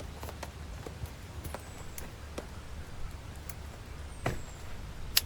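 Scattered light taps and clicks over a steady low rumble, with a faint high whistle falling in pitch about every two to three seconds. A sharp click near the end is the loudest sound.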